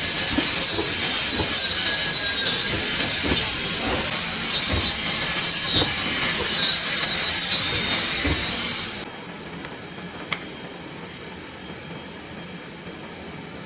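CNC knife cutting machine running on artificial turf: a loud, steady hiss with a high-pitched whine. It cuts off about nine seconds in, leaving a quieter steady hum broken by a single click.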